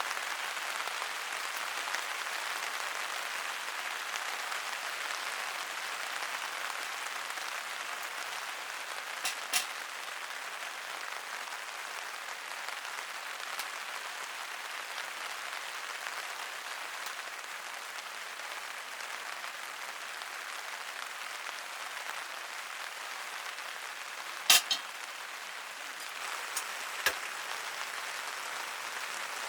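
Steady rain falling on a tent's fabric, an even hiss with a few sharp clicks or knocks, the loudest about three quarters of the way through.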